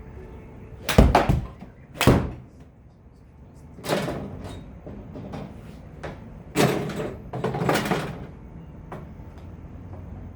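A series of sharp knocks and thuds, a few seconds apart, over a steady low background hum. The first comes about a second in, and a longer cluster comes about two-thirds of the way through.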